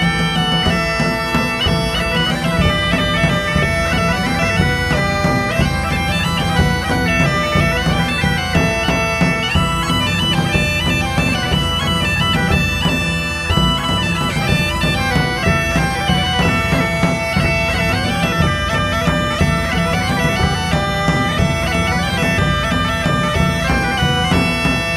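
Bagpipe music: a melody played over a steady low drone.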